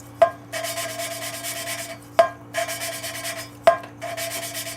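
Gritty rubbing of a Ford 302 engine valve being hand-lapped against its seat with lapping compound, twisted back and forth in a steady rhythm. A sharp click begins each stroke, about every one and a half to two seconds.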